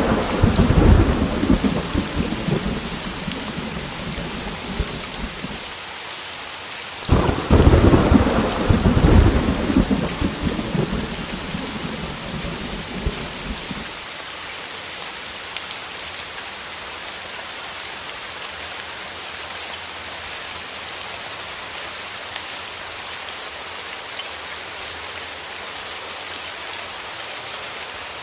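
Heavy rain falling steadily with two rolls of thunder. The first is already rumbling at the start and fades over several seconds; a second breaks sharply about seven seconds in and rumbles away until about halfway through, leaving only the steady hiss of the rain.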